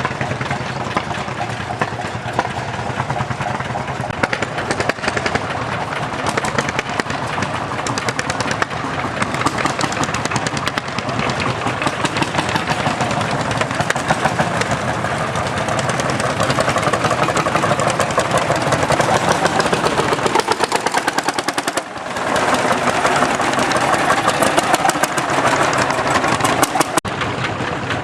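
Hot-bulb tractor engines running, a rapid, even knocking beat of firing strokes, with a brief drop in level about three quarters of the way through.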